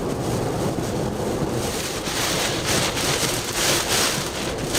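Hurricane Ian's eyewall rain and wind, a steady rushing hiss that grows stronger about two seconds in as the back eyewall arrives.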